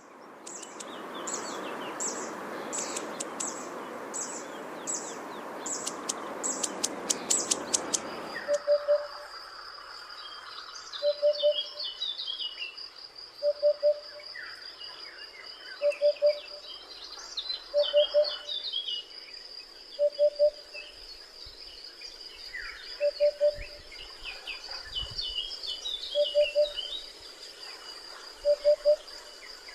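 A zitting cisticola repeats sharp, high 'zit' notes roughly every half second over a steady hiss. After an abrupt change about 8 seconds in, a Eurasian hoopoe gives its low three-note 'oop-oop-oop' call about every two and a half seconds, with other small birds chirping and a steady high whine behind it.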